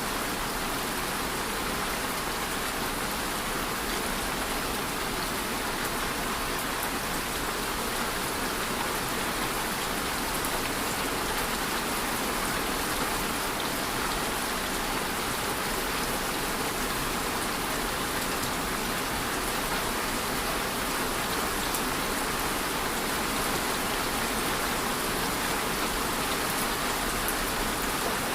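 Steady rain falling on a surface, a continuous even hiss of many drops with no thunder.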